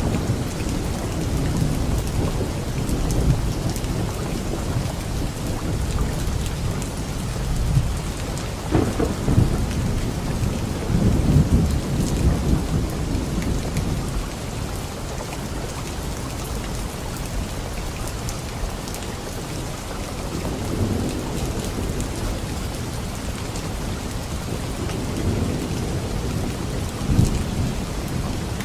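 Steady rain with low rolling thunder. The rumbles swell about nine seconds in and again near the end.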